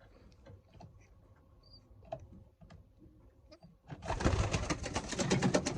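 Racing pigeons in a loft: faint clicks and a brief high chirp. About four seconds in, a sudden loud run of rapid fluttering or rustling starts and keeps going.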